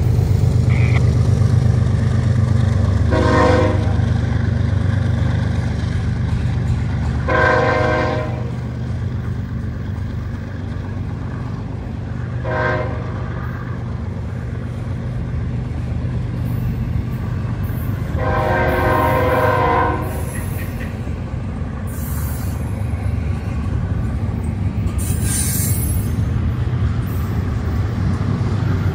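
Freight train rolling past close by: the low rumble of an EMD GP40-2 diesel locomotive, then autorack and double-stack intermodal cars clattering over the rails. Meanwhile the lead locomotive's air horn sounds four blasts up the line, the last and longest lasting about two seconds.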